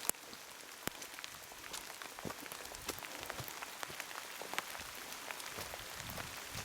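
Heavy rain falling steadily, with many individual drops ticking sharply close by at irregular moments.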